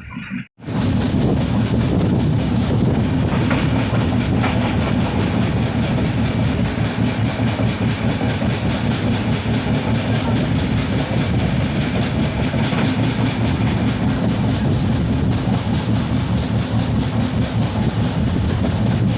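Passenger express train running along the line: a loud, steady rumble of the coaches with the wheels clattering on the track, starting after a brief cut about half a second in.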